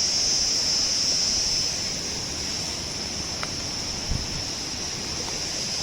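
A rushing river with a steady high-pitched insect chorus over it, such as crickets or cicadas. There is a brief low thump about four seconds in.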